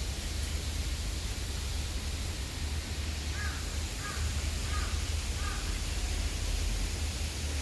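A bird calling four times in an even series, each call short, over a steady low rumble and hiss.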